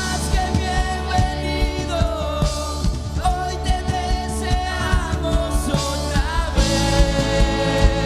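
Live worship band playing a song, a singer carrying the melody over drums and bass; the band grows fuller about six and a half seconds in.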